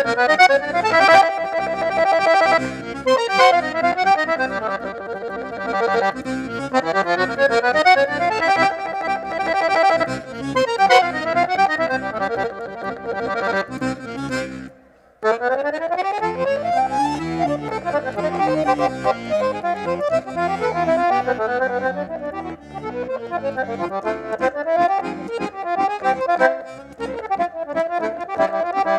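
Accordion (sanfona) playing a tune with bellows-held chords and running melody lines, breaking off briefly about halfway through and then starting again.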